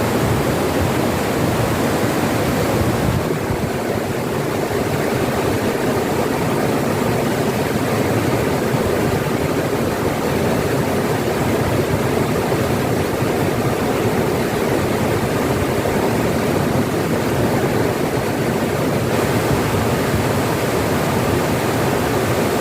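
Water of a rocky stream rushing steadily.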